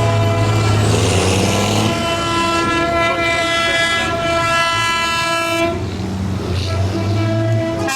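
A vehicle horn held for about four seconds, starting about two seconds in, over the low running of engines in a passing convoy of tractors, with other horns sounding briefly around it.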